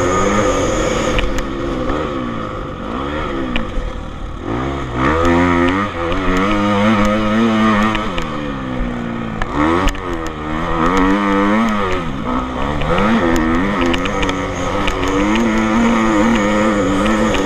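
Motocross bike engines running hard, their pitch rising and falling over and over with throttle and gear changes, with a second engine holding a steadier note underneath.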